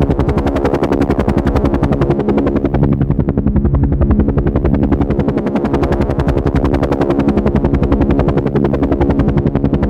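Helicopter rotor chopping fast and evenly, with a steady engine hum beneath.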